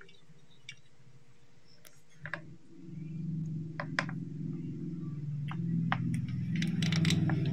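Scattered clicks, then from about three seconds in the Yamaha Chappy's small two-stroke engine running with a low, rapid pulsing that grows louder toward the end: the engine firing on the newly fitted RS100 CDI.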